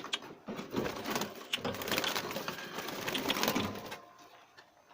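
Budgerigars chattering, a busy stream of short chirps and clicks that drops away about four seconds in.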